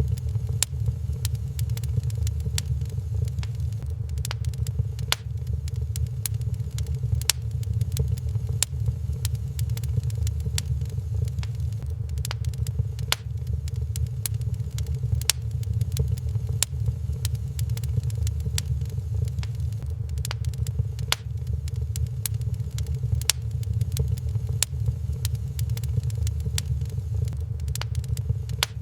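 Wood fire crackling in a fireplace, with scattered sharp pops and snaps at irregular intervals over a steady low rumble.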